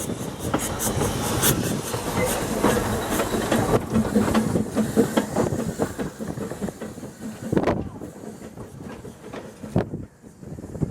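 Narrow-gauge steam train running, with steam hiss and a rapid clatter of wheel and rail clicks that fades over the last few seconds, leaving a few separate knocks.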